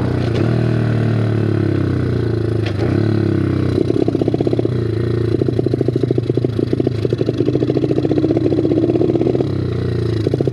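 Bigfoot 125 four-stroke pit bike engine running while being ridden: a steady note for the first few seconds, then a fast, choppy pulsing sound from about four seconds in until near the end.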